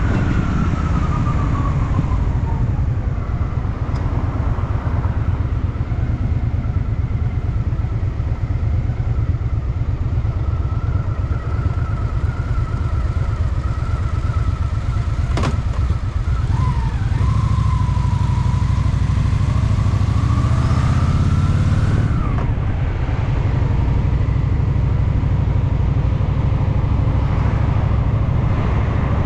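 Honda Shadow VT750's V-twin engine running under way through town traffic. A little over halfway through it pulls harder for a few seconds, then eases off. A single sharp click comes about midway.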